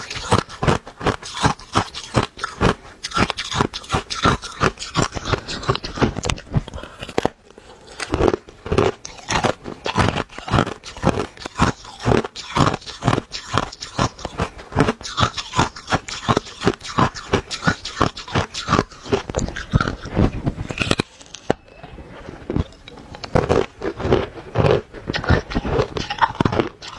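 Thin ice being bitten and chewed close to the microphone: rapid crisp crunches, several a second, with a couple of brief lulls.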